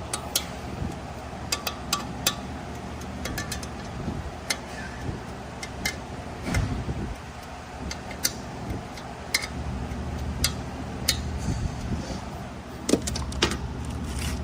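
Scattered sharp metallic clicks and clinks of hand tools and parts being handled on an automatic transmission, at irregular intervals over a steady low hum.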